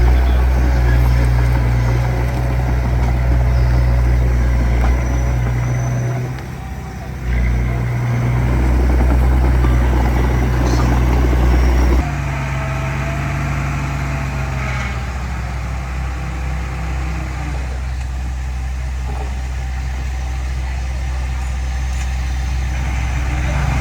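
Diesel engine of earth-moving machinery running steadily, with a brief dip about six seconds in and an abrupt change to a quieter, lower running sound about halfway through.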